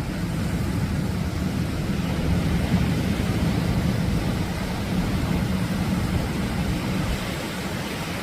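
Atlantic waves breaking on the shore: a steady, unbroken rushing rumble of surf.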